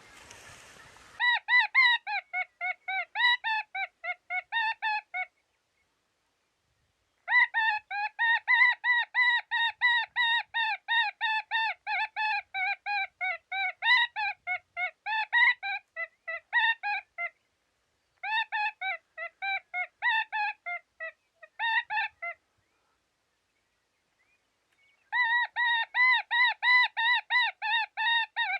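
Electronic predator call playing a recorded distress sound: rapid strings of short, high-pitched squealing notes, several a second, each string sliding lower in pitch. It comes in four bouts broken by brief silences.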